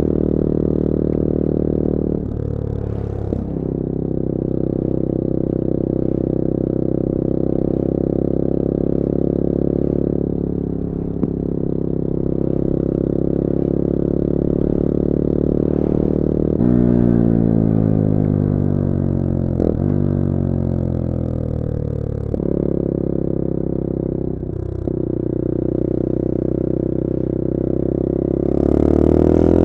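The CF Moto-engined 250cc four-stroke engine of a 2021 Bullit Hero 250 motorcycle running under way, heard from on board. The note holds steady at cruise, with short dips in level about two seconds in and twice in the second half. Near the middle it falls in pitch for several seconds as the bike slows, and near the end it rises as it accelerates.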